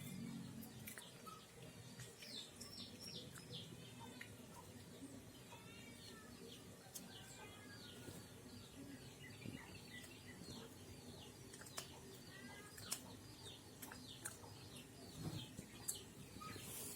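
Faint bird chirping: series of short falling notes repeated through the whole stretch, with a few scattered sharp clicks.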